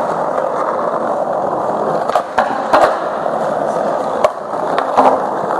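Skateboard wheels rolling steadily over pavement, with a handful of sharp knocks from the board in the second half.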